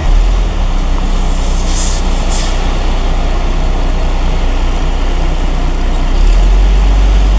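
Concrete mixer truck's diesel engine running close by, with two short hisses of air about two seconds in; the engine gets louder about six seconds in.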